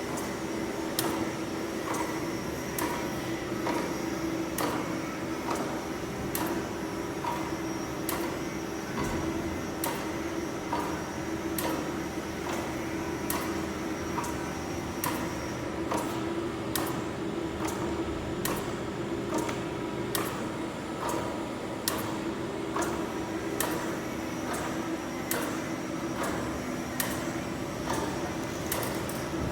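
Chevalier FSG-3A1020 hydraulic surface grinder running, with a steady hum and a high whine, and sharp clicks about once or twice a second.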